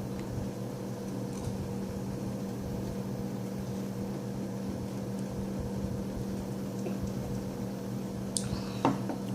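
Steady low electrical hum, like a fan or air conditioner, while a person gulps down a glass of orange juice; a short sound near the end as the drinking stops.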